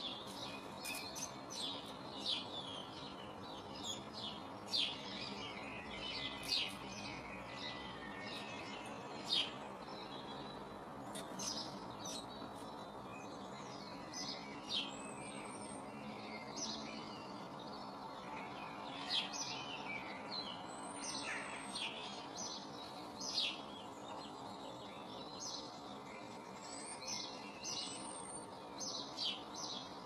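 Small birds chirping: short, sharp high calls every second or so, over a steady low background noise.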